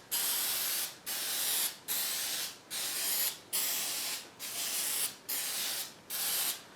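Aerosol spray can of water-based polyurethane hissing in about eight short bursts, each just under a second long with a brief pause between them: a coat of finish being sprayed on.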